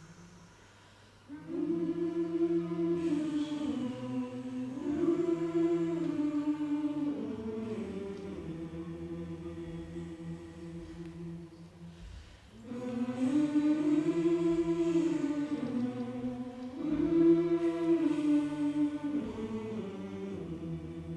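Choir singing two long, slow phrases of held, gliding notes. The first comes in suddenly about a second in and fades; the second starts a little after halfway and follows the same melody.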